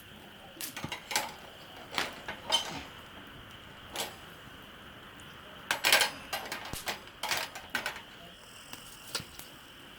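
Cookware and utensils clinking and knocking in irregular clusters, with the busiest run of knocks around the middle.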